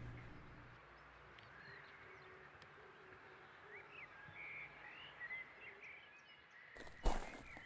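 Faint birds chirping in quiet outdoor ambience, with a low hum fading away in the first second. Near the end come a few sharp knocks, the loudest sounds.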